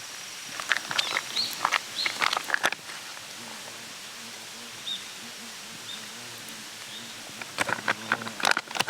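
A fly buzzing close by, a wavering hum that comes in about three and a half seconds in, with a few faint bird chirps. Handling clicks and knocks come before it and again near the end.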